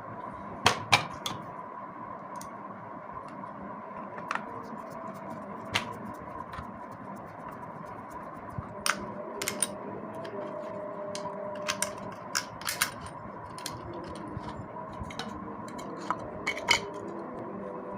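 Scattered sharp metallic clicks and clinks of small vacuum-cleaner motor parts and tools being handled during reassembly, over a steady background hum.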